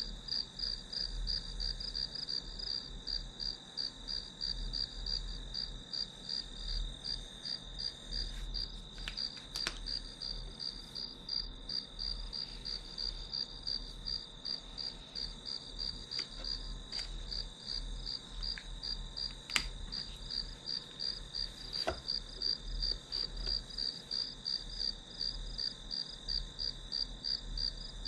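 Crickets chirping in an even pulsing rhythm, about two chirps a second, over a continuous high insect trill. A few faint clicks come through now and then.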